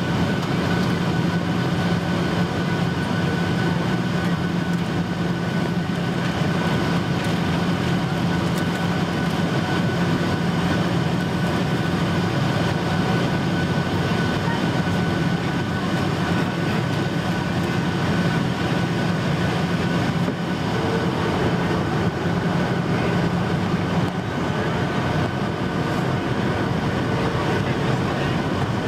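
Cabin noise inside a Boeing 737-800 in flight, heard from an over-wing window seat: a steady rush of airflow and CFM56 engine noise with a low hum that fades away about 24 seconds in.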